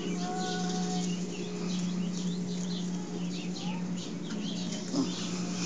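Birds chirping in quick short notes over a steady low hum.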